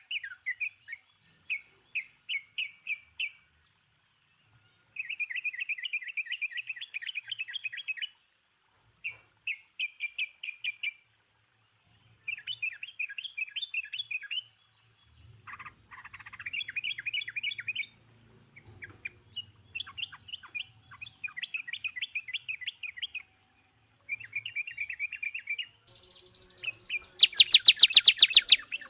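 Songbird singing in repeated short phrases of fast, high chirps with brief pauses between them. Near the end comes a much louder, very rapid trill, the loudest sound here.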